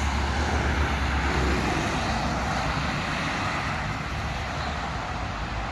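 Steady road traffic noise, a wash of tyre and engine sound with a low rumble that eases after about a second and a half.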